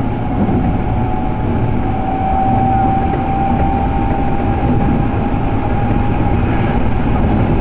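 Interior running noise of an electric commuter train at speed: a steady low rumble with a thin, steady whine over it.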